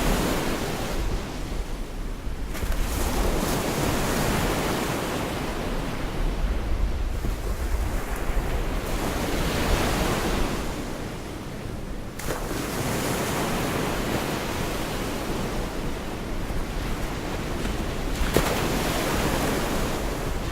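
Gulf of Mexico surf breaking and washing up the shore, the wave noise swelling and fading every few seconds, with wind buffeting the microphone. A single sharp tap sounds near the end.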